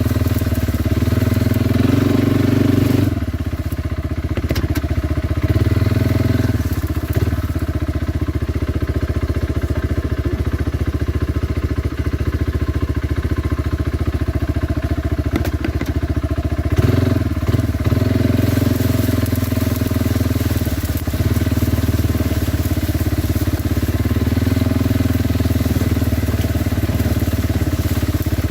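Kawasaki Brute Force 300 ATV's single-cylinder engine running steadily while riding; it eases off about three seconds in and picks up again a little past halfway.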